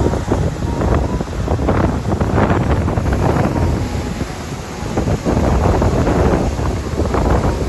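Wind gusting hard across the microphone, a heavy rumble that surges and eases every second or so, over the noise of sea waves washing in.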